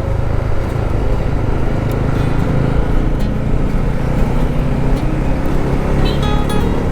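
Motorcycle running steadily at road speed, a continuous low rumble of engine and road noise. Guitar music comes in near the end.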